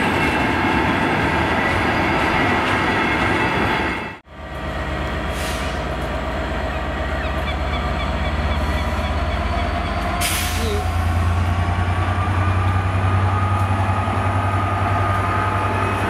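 A freight train of loaded log wagons rolls past with steady wheel and rail noise. After a cut about four seconds in, a Class 67 diesel locomotive (EMD V12 two-stroke) hauling coaches draws in along the platform, its low engine drone growing as it nears, with faint wheel squeal and a brief hiss of air about ten seconds in.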